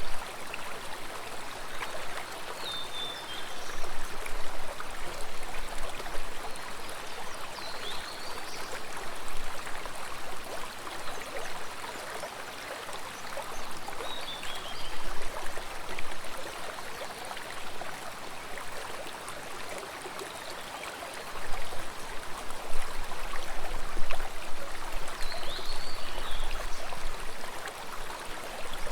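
Water flowing and splashing steadily in a stream, with a few short high chirps over it.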